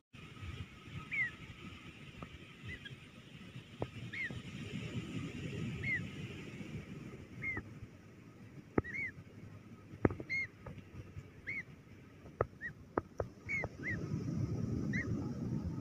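A bird giving short, arched calls, one about every second or so, with scattered sharp clicks and a low rumble of wind underneath.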